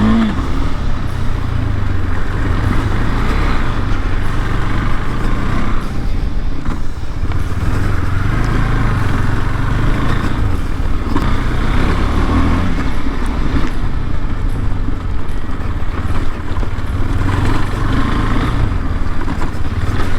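KTM 390 Adventure's single-cylinder engine running while the bike is ridden along a muddy off-road trail, the revs rising and falling every few seconds.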